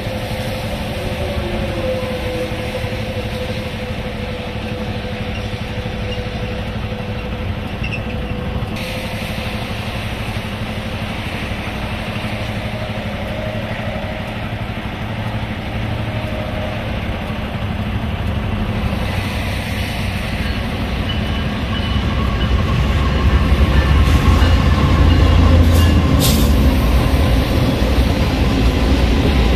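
Freight train led by two diesel locomotives approaching a level crossing and going by. A steady low rumble builds and is loudest about three-quarters of the way through, as the locomotives pass. The rolling train cars follow.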